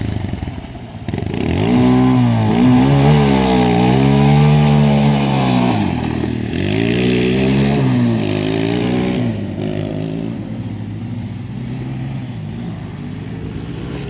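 Motocross motorcycle engine revving hard, its pitch repeatedly dropping and climbing again with the throttle and gear changes. It is loudest from about two to nine seconds in, then fades to a lower, steadier drone.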